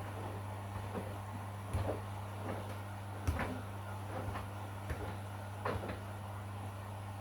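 Washing machine running, with a steady low motor hum and the drum tumbling the laundry: irregular soft knocks and clunks every second or so as the load drops, the sharpest a little past three seconds in.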